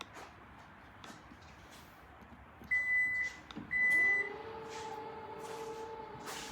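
Kia EV6 power tailgate in operation: two loud, steady warning beeps about a second apart, then the tailgate motor starts with a short rising whine and whirs steadily as the tailgate moves.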